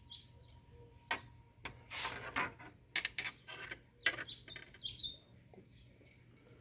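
Irregular rustles, rubs and light clicks of hands handling things, with a few faint short high chirps near the start and about four and a half seconds in.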